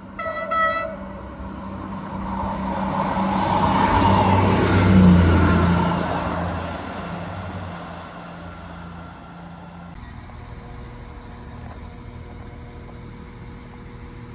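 A diesel multiple unit sounds one short horn blast, then passes at speed, its engine and wheel rumble swelling to a peak about five seconds in and dying away. About ten seconds in, the sound cuts to the steady low hum of a Class 195 diesel unit at a platform.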